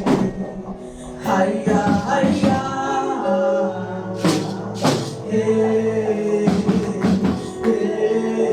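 Live gospel praise music: held keyboard and bass notes under repeated drum and cymbal hits, with singing voices.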